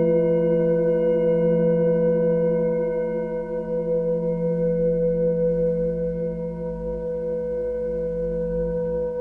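Singing bowl ringing on after a single strike, several steady overtones sounding together. The higher ones die away over the first few seconds, while the deeper tones hold with a slow, wavering pulse in the loudness.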